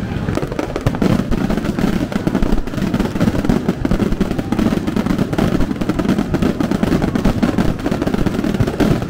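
Fireworks going off in rapid succession: a dense, continuous run of bangs and crackles with no letup.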